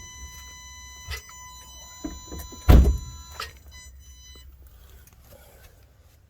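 Car handled with the engine off: a few clicks and knocks, then a solid thunk a little under three seconds in, like a car door being shut. A faint steady high whine stops about four and a half seconds in.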